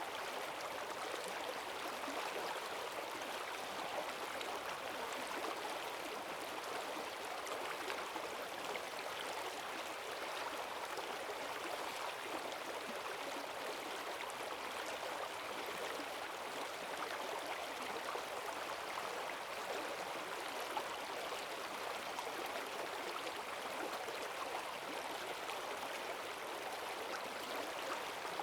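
Forest stream swollen with rainwater rushing steadily over its bed, a constant dense splashing with no change in level.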